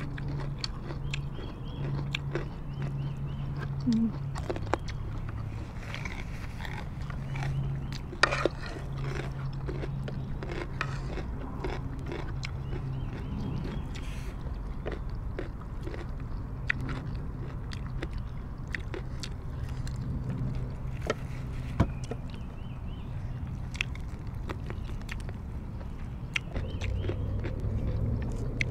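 Close-miked eating: chewing and biting of rice, curry and steamed vegetables, with many short sharp clicks scattered throughout, over a low steady hum.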